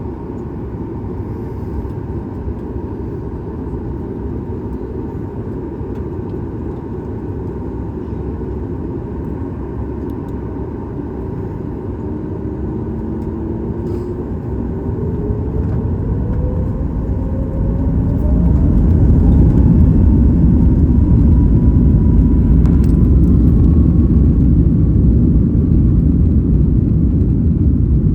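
Boeing 737 MAX 8's CFM LEAP-1B engines heard from inside the cabin, spooling up to takeoff thrust. A steady low rumble carries on for the first half. Then an engine whine rises steadily in pitch and the rumble grows much louder, staying loud near the end as the takeoff roll begins.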